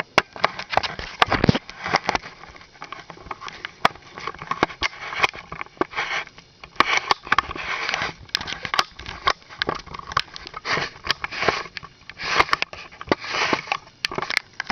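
Handling noise: irregular rubbing and rustling with many sharp clicks and knocks as the recording device is fiddled with and set up on a music stand.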